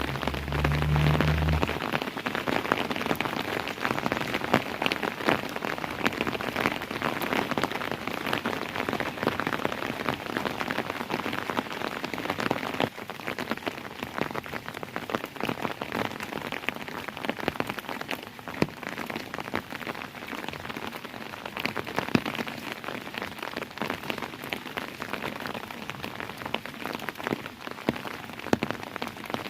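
Steady rain falling, made up of many separate drop hits over a dense wash. A brief low rumble comes in the first couple of seconds, and the rain is a little softer from about halfway on.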